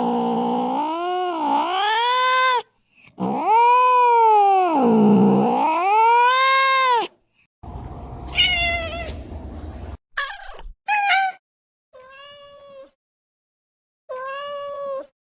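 Domestic cat yowling: two long drawn-out wails whose pitch sags low and climbs back up. Then comes a run of four or five short meows, the first over a low hum.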